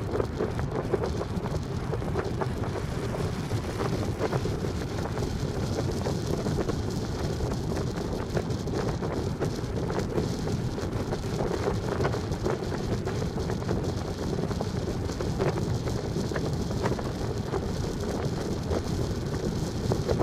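Steady low rumble of wind on the microphone, with faint irregular crackles throughout.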